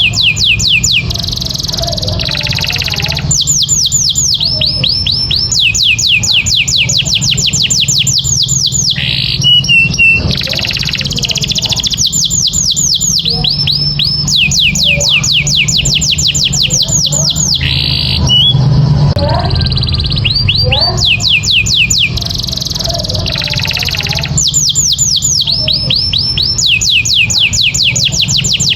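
Canary singing: a long song of fast trills, each phrase a rapid run of identical downward-sweeping high notes, changing speed and pitch from phrase to phrase with brief pauses between. A steady low hum runs underneath.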